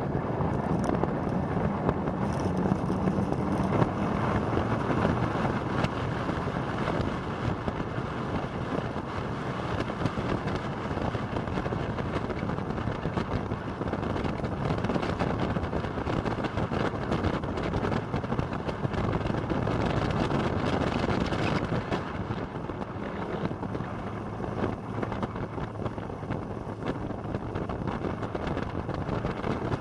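Motorcycle engine running at steady road speed while riding, mixed with wind rushing over the microphone.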